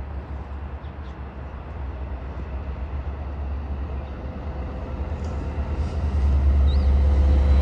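Long Island Rail Road diesel locomotive-hauled train approaching, its steady rumble growing louder, most of all in the last couple of seconds.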